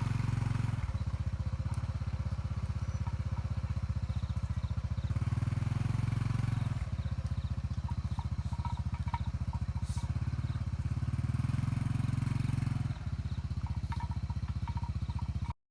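Small engine running steadily with a fast low pulse, its tone shifting slightly every few seconds, cutting off suddenly near the end.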